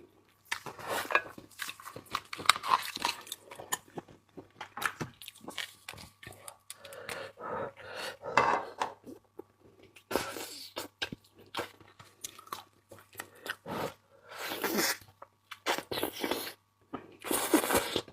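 Close-up eating of shellfish: irregular chewing, crunching and wet sucking sounds as the meat is bitten and sucked from the shells.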